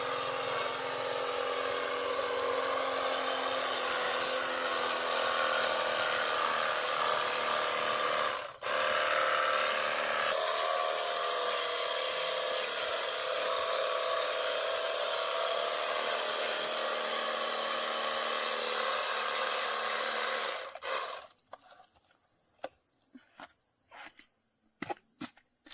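A power tool's motor running steadily with a held whine, cutting out for a moment about eight seconds in and changing pitch a couple of seconds later, then stopping near the end, after which only faint clicks and taps are left.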